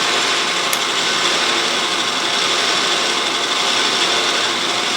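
Autobox 8x16 mini lathe running with the lead-screw power feed engaged: a steady mechanical whir and gear-train chatter from the motor and feed gears, with a faint high whine.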